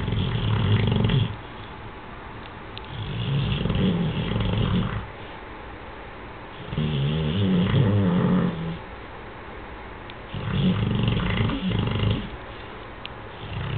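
Beagle snoring in its sleep: a long, rough snore about every three seconds, each lasting about two seconds, with quiet breaths between.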